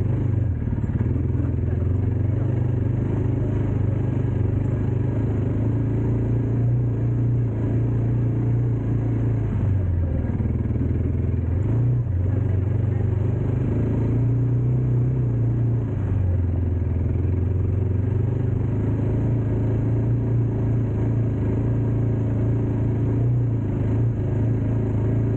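Dirt bike engine running continuously, its pitch dipping and rising a few times as the throttle changes.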